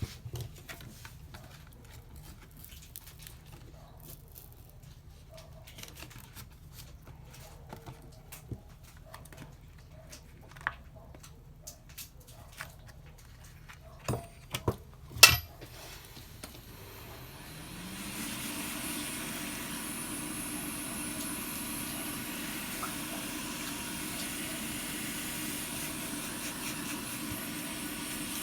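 Small clicks and taps of tools on a phone, with two sharper clicks about halfway through. Then a hot-air blower spins up with a rising hum, and a steady hiss of blowing air runs on.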